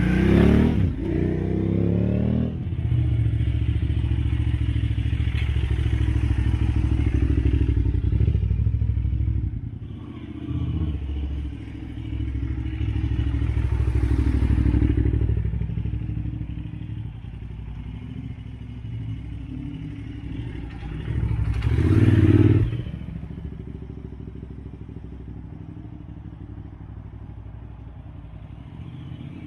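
2008 KTM 990 Adventure's V-twin engine running, with a rising rev as it pulls past near the start. It stays loud through the first third and revs briefly again about two-thirds of the way through, then settles to a quieter steady idle.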